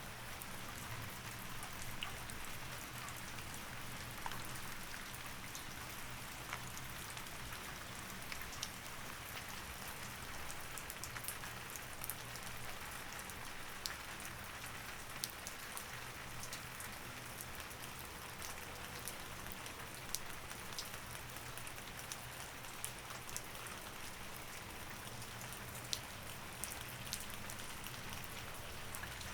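Steady rain falling, with many scattered drops ticking sharply.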